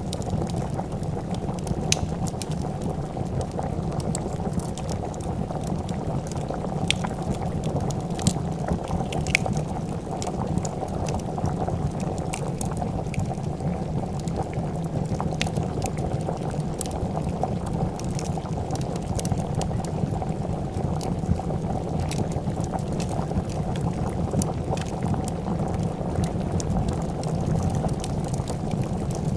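A pot of soup boiling, with a steady dense bubbling throughout. Sharp pops and crackles of a wood fire are scattered on top of it.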